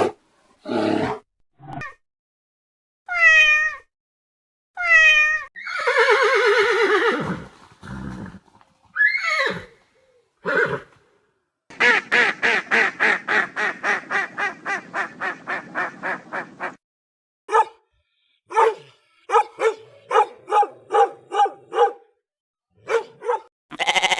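Zebras calling: a series of yelping, braying barks, some sliding in pitch, with a long run of short rapid huffs at about four a second.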